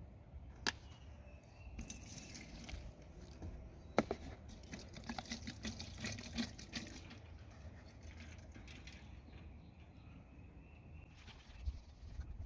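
Liquid pouring and trickling into a container, with two sharp clicks, one under a second in and one about four seconds in.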